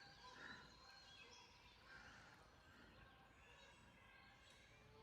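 Near silence with faint, scattered bird calls: short high notes and chirps.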